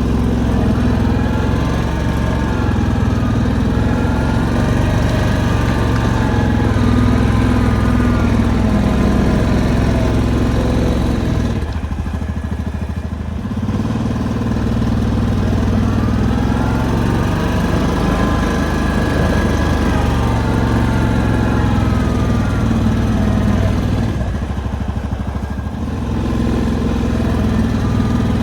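Engine of a snow-plowing vehicle running steadily as it works, its pitch swinging up and down. It eases off briefly twice.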